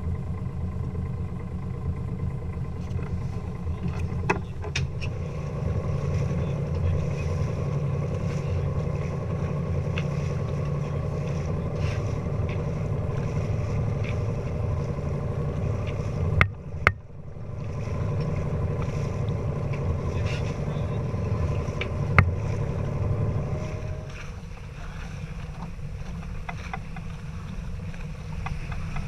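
A sailboat's inboard engine runs steadily under way, with a low hum. There is a brief break about halfway through, and the engine note drops lower and quieter a few seconds before the end.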